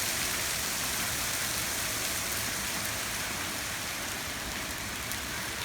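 Heavy hail coming down: a steady, dense hiss of hailstones with the odd faint sharp tick.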